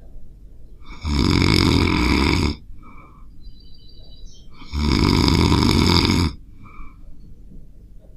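A dog snoring loudly: two long snores, each about a second and a half, about three and a half seconds apart, with little sound between them.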